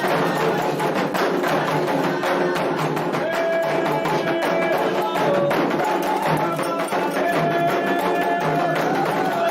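Candomblé ritual drumming: atabaque hand drums with a struck bell playing a fast, steady rhythm. From about three seconds in, long held notes ride over the drumming.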